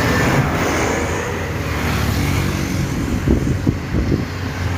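Heavy truck engines running with a low, steady rumble, mixed with road traffic noise.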